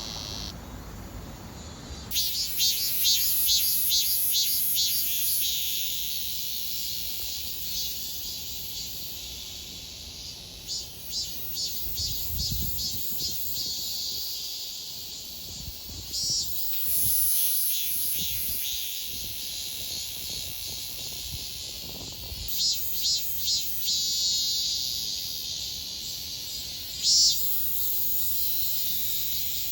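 Cicadas singing: high, rapidly pulsing buzzing calls that swell into several louder bouts and fade back, starting about two seconds in.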